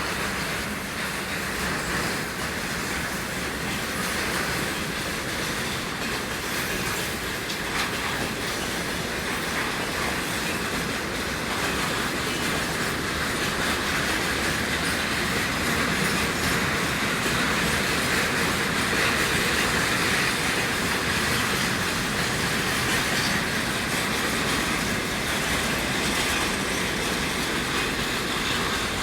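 Freight train rolling past, its wagon wheels clicking over the rail joints in a steady clickety-clack, growing a little louder about halfway through.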